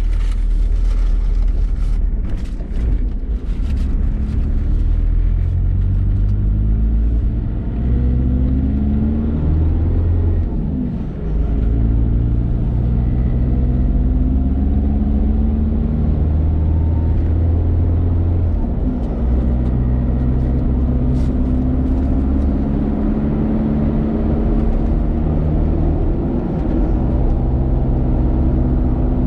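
Isuzu Trooper's engine running on the road while towing a trailer, heard from inside the cab. Its pitch climbs in stretches as it pulls through the gears, with brief dips at gear changes, over a steady low rumble of road noise.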